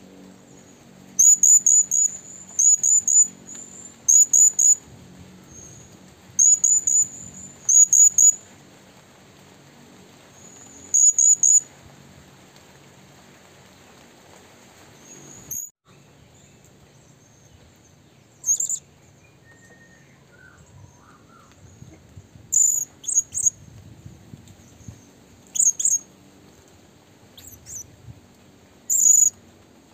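A bird calling with very high, short chirps in quick runs of two to four, repeated every second or two at first and more sparsely later on.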